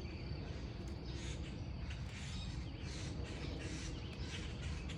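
Wild birds calling, short harsh calls repeating every half second to a second, over a steady thin high insect drone and a low rumble.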